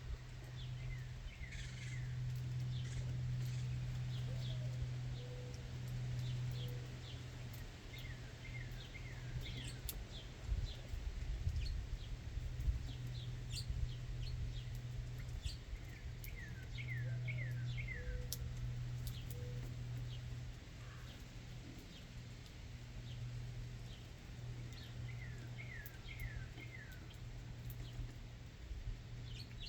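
Backyard songbirds chirping and calling, with a short phrase of four or five quick downslurred notes repeating about every eight seconds, over a steady low hum.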